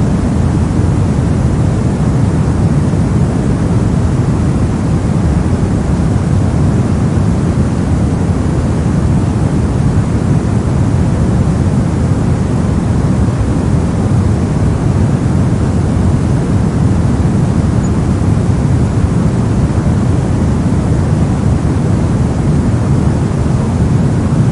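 Brown noise: a steady, deep rushing hiss, heaviest in the bass and thin in the treble, unchanging.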